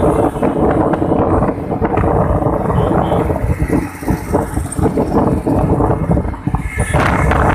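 Wind buffeting the microphone of a moving motorcycle, with the engine's steady running underneath.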